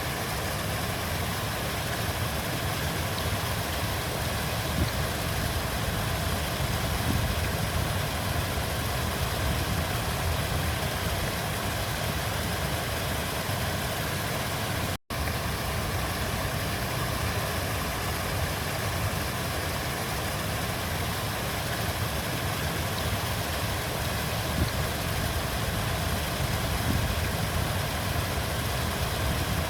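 River water flowing, a steady low rushing sound that holds level, broken once about halfway through by a momentary cut to silence.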